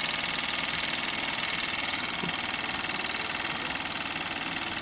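A Jensen style #76 model steam engine running steadily, its exhaust giving a fast, even chuffing over a constant hiss of steam.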